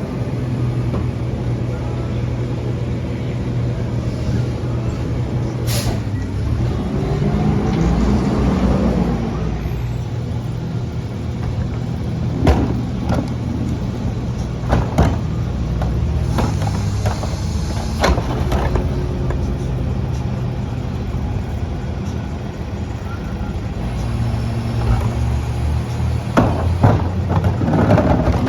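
CNG Mack LR rear-loader garbage truck running steadily, its engine swelling briefly and easing back down about eight seconds in, with several sharp bangs at intervals.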